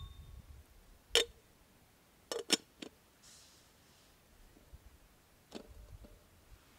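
A few sharp clicks or knocks: one about a second in, a quick run of three around two and a half seconds, and another near the end, with a brief soft hiss in between.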